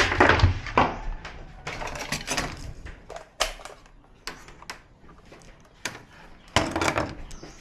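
Scattered small clicks and clatter of tools and TV parts being handled on a repair bench, loudest at the start and again near the end.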